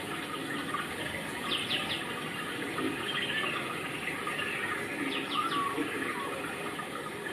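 Birds chirping in quick little calls, about one and a half and five seconds in, over a steady rushing background noise.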